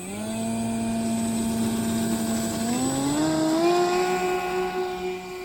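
Electric RC airplane motor and propeller whining under throttle. It holds one steady pitch, rises smoothly to a higher pitch about three seconds in, then holds there.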